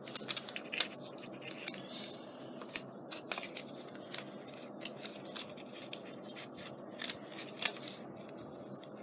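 Paper and card being handled while adhesive tape tabs are laid on a photo for a scrapbook page. It is a run of irregular crisp clicks and rustles, busiest in the first second.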